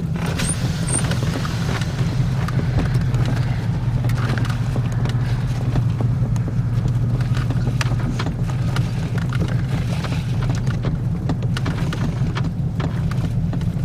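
Car driving slowly, heard from inside the cabin: a steady low engine and road hum, with scattered light clicks and rattles.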